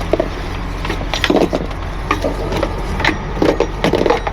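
Truck engine idling steadily under a string of short knocks, clacks and rattles from gear being handled.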